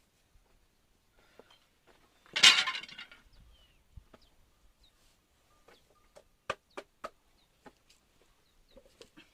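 A short, loud crackling rustle about two seconds in, then three sharp clicks in quick succession a little past the middle, with a few faint ticks around them.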